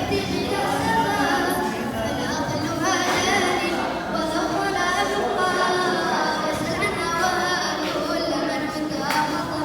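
Unaccompanied singing, a voice carrying a melody with sustained, gliding notes.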